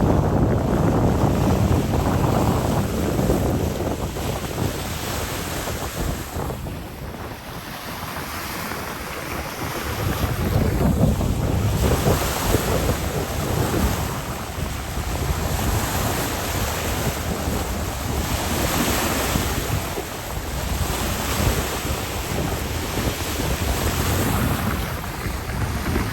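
High wind gusting over the microphone, with choppy bay water breaking in whitecaps. The wind eases about a third of the way through and then builds again.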